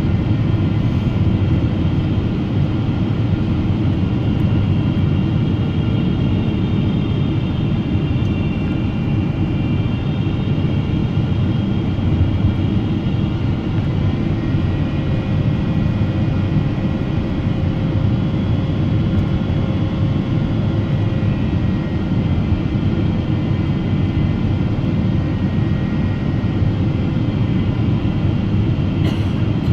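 Steady cabin noise inside a Boeing 777-300ER during the approach: a continuous rush of airflow and GE90 engine noise, with faint steady whining tones above it.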